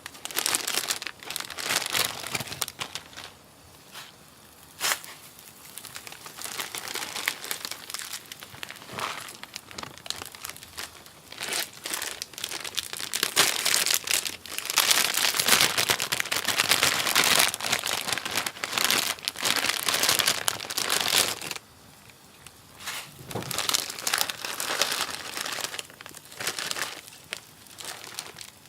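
Plastic packaging crinkling and rustling in irregular bursts, louder in the middle stretch.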